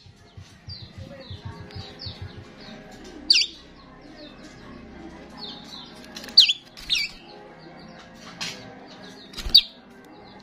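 Starling singing: a steady stream of short high chirps, broken by several loud, sharp calls about three, six and a half, seven and nine and a half seconds in.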